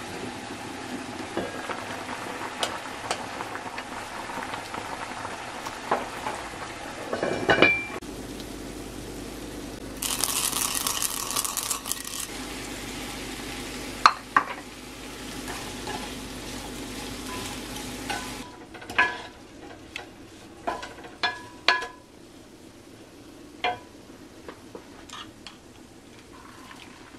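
Food sizzling and frying in a pan, with a brief louder hiss about ten seconds in. Near the end the sizzling fades and utensils clink against pans and dishes several times.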